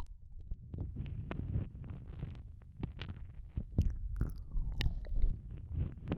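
Ear-eating ASMR mouth sounds: lips and tongue working wetly right against an ear microphone, giving irregular smacks and clicks over a muffled low rumble.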